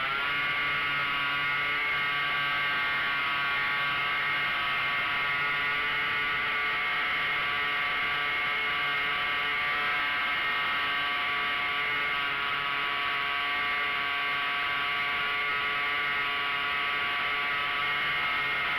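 Quarter-scale Hangar 9 Taylorcraft RC airplane's engine running at a steady buzzing pitch, with airflow noise rushing over the wing-mounted microphone.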